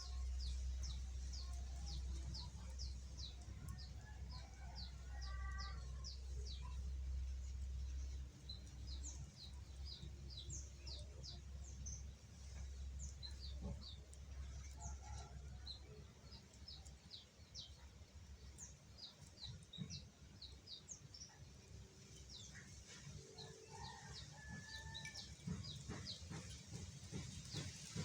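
A juvenile caged songbird practising a rapid 'ngeriwik' twitter in the 'kaset konslet' style: a long stream of short, high chirps, several a second, with a few lower calls mixed in. A steady low hum underlies the first half and stops about midway.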